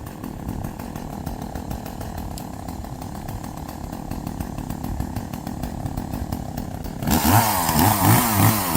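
Chainsaw running steadily, then louder near the end with its pitch rising and falling as it revs.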